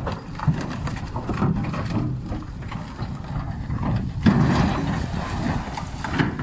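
Heavy truck engine running with a noisy rumble, broken by irregular knocks and rattles; louder for a moment about four seconds in.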